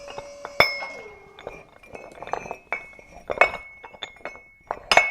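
A run of sharp, irregular clinks of small hard pieces knocking together, several with a short ring, like mini clay bricks being tipped or stacked. A small motor's steady hum slides down in pitch and stops about a second in.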